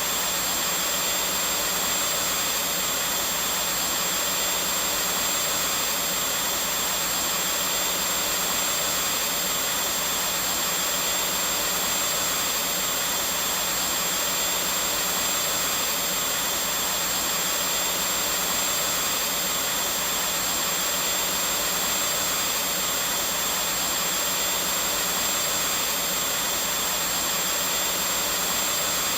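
Vacuum cleaner running steadily: a constant rushing whir with a thin high whine, unchanging in pitch and level.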